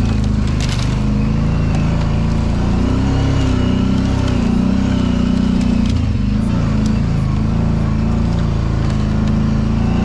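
Kawasaki Brute Force 750 ATV's V-twin engine running under way, its pitch rising and falling with the throttle. A short rattle of clicks comes about half a second in.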